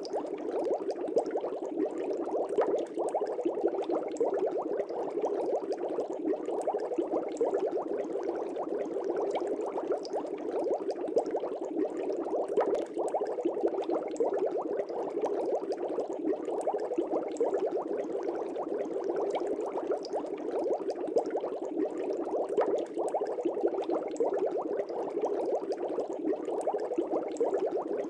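Air bubbles rising and breaking at the surface of an aquarium, a steady dense bubbling and gurgling with many small pops.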